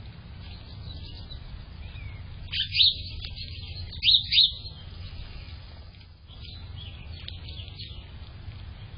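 A small bird calling near the microphone: two short bursts of loud, high, sharp notes, each of two or three notes, about a second and a half apart. Fainter chirps come and go around them.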